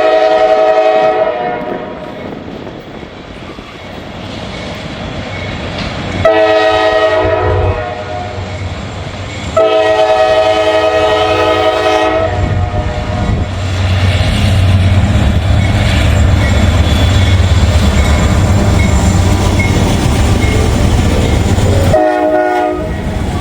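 Freight locomotive air horn sounding for workers in a track work zone: a long blast at the start, a short one about six seconds in, a long one about ten seconds in and a short one near the end. Between the blasts the diesel locomotives pass close with a loud low rumble, heaviest from about thirteen seconds on.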